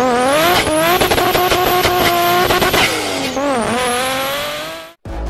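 Race car engine revving up to a high held pitch with a rapid stutter, dipping and climbing again about three seconds in, then cutting off abruptly near the end.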